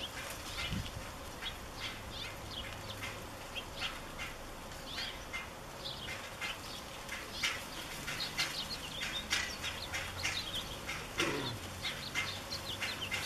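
Birds chirping and calling again and again in short, separate notes, over a faint steady low hum.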